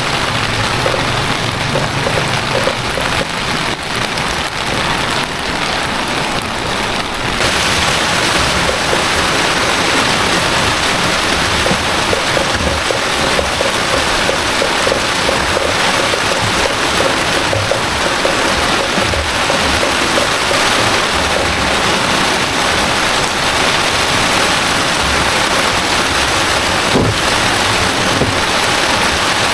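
Heavy rain falling steadily, growing louder and harsher about seven seconds in.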